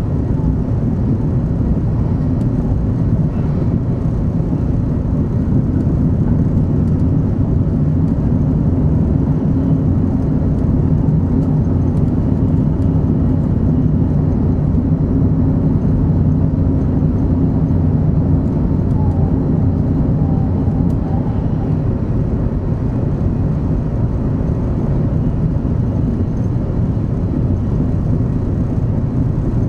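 Shinkansen 500 Series train running at speed, heard from inside the passenger cabin: a steady low rumble with a faint humming tone underneath.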